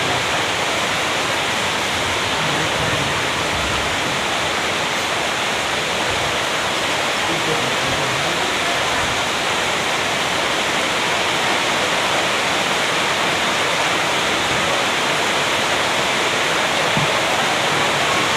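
Steady, even rushing noise without breaks or distinct events.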